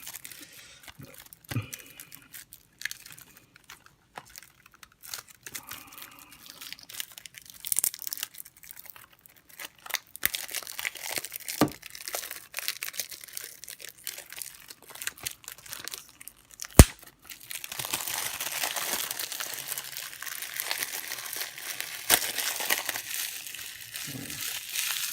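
Plastic shrink-wrap on a Blu-ray case being pierced with a pencil and torn open, with scattered clicks and rustles. A sharp click about two-thirds of the way through, after which the plastic crinkles steadily.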